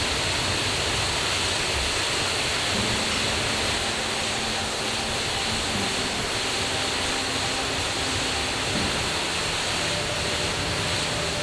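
Mountain stream and waterfall running high after rain: a loud, steady rush of water. A faint low hum that steps in pitch joins it from about three seconds in.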